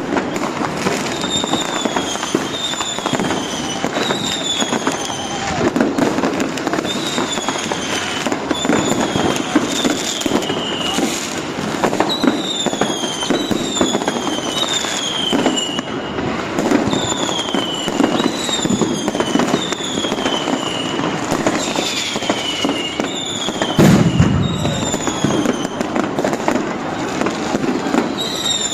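Fireworks and firecrackers crackling and popping without a break, with many high whistles falling in pitch, roughly one a second, and a heavier bang toward the end.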